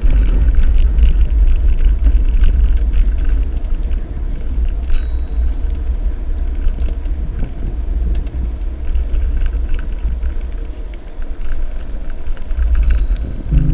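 Loud, fluttering wind and road rumble on a bicycle-mounted action camera's microphone while riding, with scattered small clicks and rattles.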